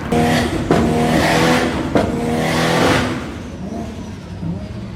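A tuned car engine held at high revs, loud for about three seconds with a sharp crack near two seconds in, then dropping back to a lower, quieter run.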